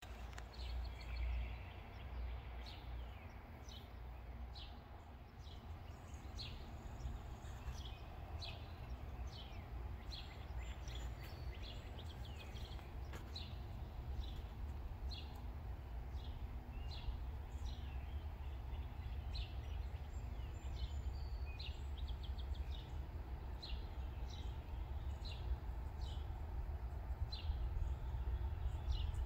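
Small birds chirping repeatedly, many short high calls scattered throughout, over a steady low rumble of outdoor background noise.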